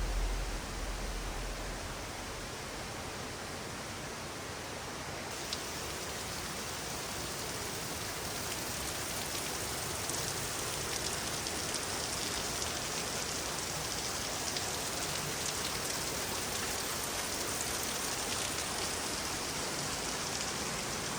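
Steady rush of falling water from a waterfall or cascade, an even hiss. About five seconds in it turns suddenly brighter and hissier, as from a nearer fall or spray.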